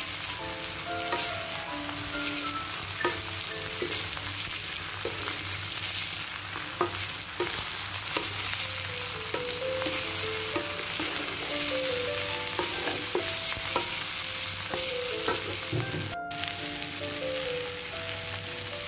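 Tempe pieces sizzling steadily in hot oil in a wok, being stir-fried with sautéed garlic, shallots and red chili until the tempe softens. A wooden spatula scrapes and clicks against the metal pan now and then.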